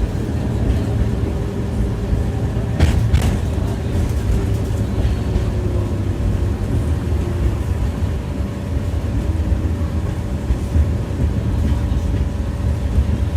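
Tram running on its rails, heard from inside the car: a steady low rumble with a faint motor whine that drifts a little in pitch. About three seconds in come a few sharp knocks close together, the wheels striking the rail joints.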